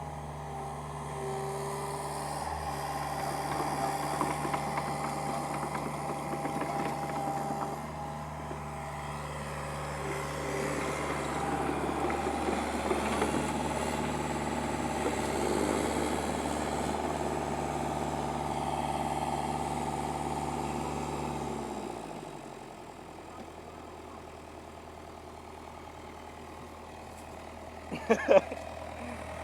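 Heavy diesel engine running steadily, louder through the middle, then dropping to a lower, quieter idle about twenty-two seconds in. A brief sharp knock comes near the end.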